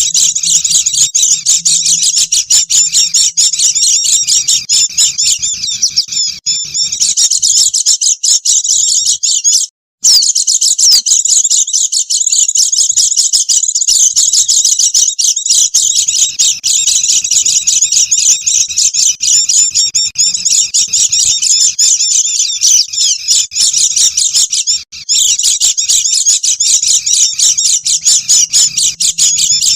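A flock of white-eyes (pleci) chattering noisily: dense, rapid high-pitched chirps and twitters running together without pause, used as a lure call for wild birds. The sound cuts out for a moment about ten seconds in, then resumes.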